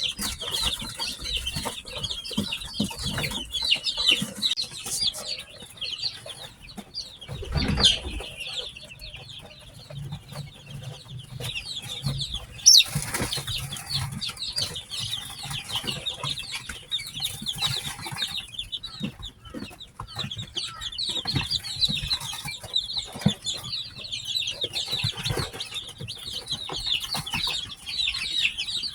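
A brood of newly hatched chicks peeping continuously, many short high chirps overlapping. There is a dull thump about eight seconds in and a sharp click, the loudest sound, around thirteen seconds in.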